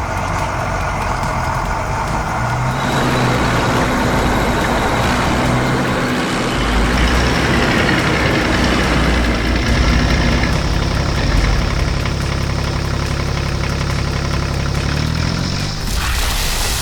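A heavy vehicle's engine running steadily, its pitch climbing shortly before the end.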